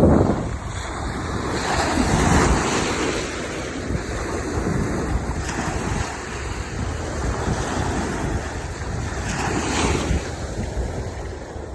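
Sea surf breaking and washing up the beach in repeated swells, with wind buffeting the microphone as a low rumble.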